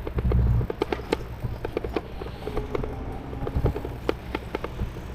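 E-bike rattling and knocking as it rides over uneven paving, a fast irregular run of clicks, with a brief low rumble near the start.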